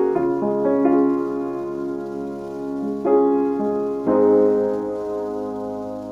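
Keyboard instrumental intro with a piano-like sound: slow chords and notes struck and left to ring, with fresh chords about three and four seconds in, fading toward the end.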